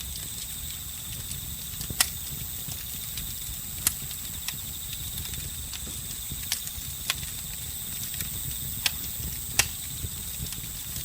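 Campfire crackling, with a handful of sharp pops scattered through, over a low steady rumble of the burning wood. Crickets and other insects chirp steadily in high continuous trills behind it.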